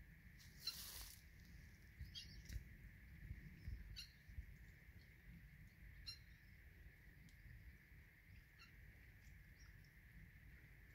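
Near silence with a few faint, short bird chirps, roughly two seconds apart, over a steady faint background hiss.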